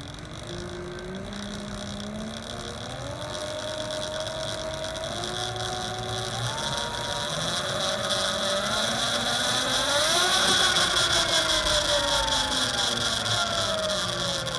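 Electric dirt bike's BHT brushless motor, run by a sine-wave controller, whining under way with a steady hiss beneath it. The whine climbs in steps as the bike speeds up, is loudest about ten seconds in, then glides down and fades.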